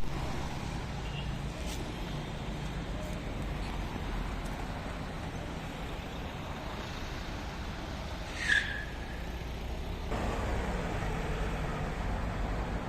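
Steady road traffic noise, a low rumble of vehicles, with one short high-pitched squeak about eight and a half seconds in; the background changes abruptly near ten seconds.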